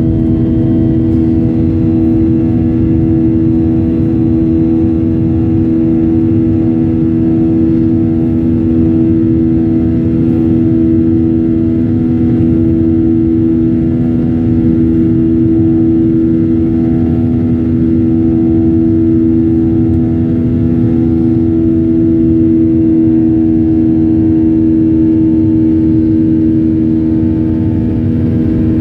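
Airliner's jet engines running during takeoff: a loud, steady rumble with a constant droning hum over it.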